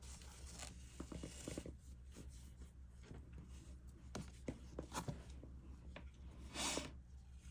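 Faint rustling and small scattered clicks of yarn being worked with a crochet hook, with a short louder scratchy rustle near the end.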